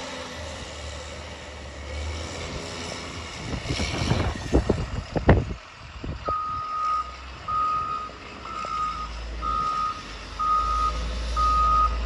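A snow-clearing vehicle's diesel engine running low, with a few sharp clunks and scraping about four to five seconds in. Then its reversing alarm starts beeping, one steady pitch about once a second, as it backs up.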